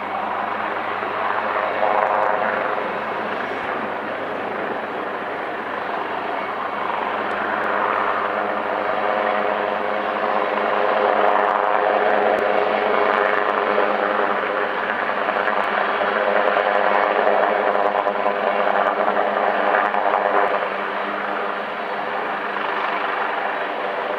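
AgustaWestland AW139 twin-turbine helicopter in flight, a steady drone of several held tones. It grows louder through the middle and drops suddenly about twenty seconds in.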